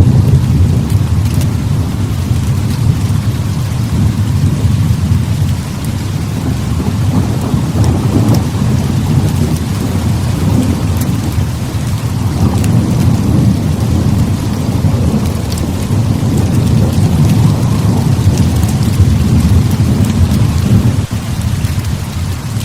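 Heavy rain with low, rolling thunder. The rumble swells and eases several times over the steady hiss of the rain, and drops off sharply near the end.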